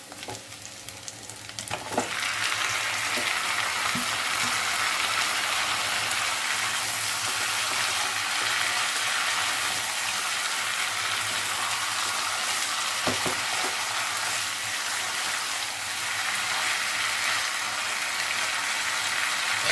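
Marinated chicken dropped into hot oil and fried onions in a kadai, breaking into a loud, steady sizzle about two seconds in. The chicken is stirred in the pan, with a few knocks of the stirring utensil.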